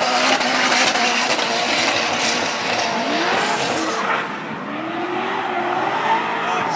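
Drift cars sliding with their tyres squealing and skidding. Engines rev up and down, with one climbing rev near the middle and another rising and holding late on. About two-thirds of the way in the tyre hiss eases for a moment.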